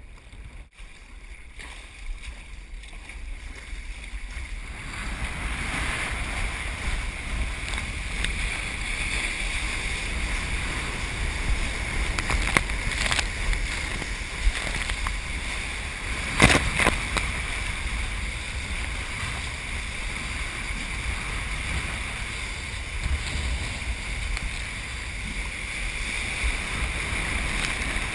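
Storm surf breaking, with wind buffeting the microphone as a steady low rumble. The noise swells a few seconds in. Two short knocks stand out, the louder one a little past halfway.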